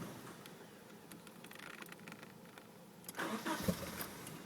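Nissan 240SX's single-cam KA24E engine being cranked on the starter without catching. The low haze is followed, about three seconds in, by a short burst of cranking. With the tube on the intake manifold disconnected, the engine acts like it wants to start but won't.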